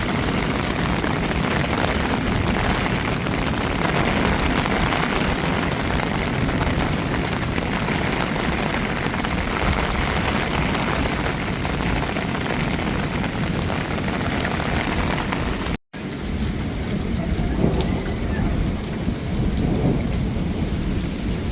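Heavy rain falling steadily, with low rumbling thunder beneath it. The sound cuts out for an instant near the end, then the rain carries on.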